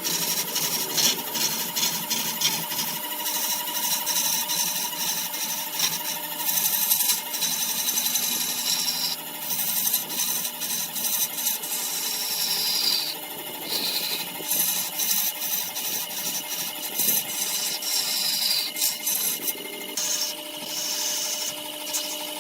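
Wood lathe running with a steady motor hum while a tool scrapes and rubs against the spinning wood, giving a continuous rough, scratchy hiss with frequent small ticks.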